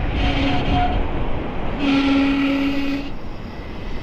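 A vehicle horn honking twice, a short honk and then a longer one, each a single steady pitch, over a steady low rumble.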